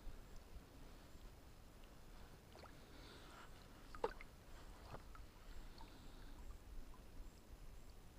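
Quiet sounds of a kayak on calm water: faint water movement and small knocks against the hull, with one sharper click about four seconds in.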